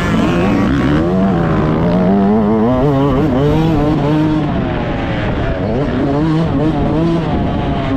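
Yamaha YZ125's 125cc single-cylinder two-stroke engine heard onboard while riding, its pitch climbing and dropping repeatedly as the throttle is opened and closed and the bike goes through the gears.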